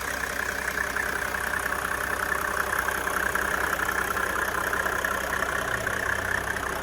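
Mercedes-Benz E300 diesel's straight-six engine idling steadily.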